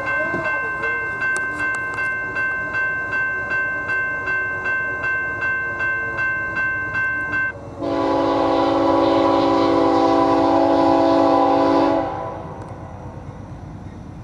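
Grade-crossing bell ringing at about two and a half strikes a second, stopping a little past halfway. A diesel locomotive's multi-chime air horn then sounds one long blast of about four seconds, the loudest sound. The quieter rumble of the train rolling past follows.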